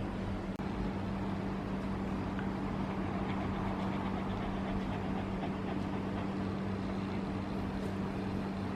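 A steady mechanical hum and rumble with a constant low tone, unchanging throughout.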